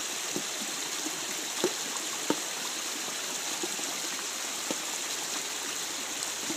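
Creek water running steadily over rocks, with a few small splashes or plops. The creek is flowing freely now that the blockage of sticks has been cleared.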